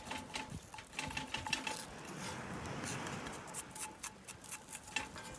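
Scattered crackling and popping with a soft hiss that swells in the middle, from a pot of seawater boiling down to salt over a campfire.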